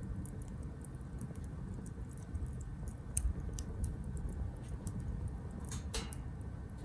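Wood fire burning in a Captain Stag Kamado Smart Grill B6, crackling with scattered small pops over a low steady rumble of flame, with a louder crackle about six seconds in.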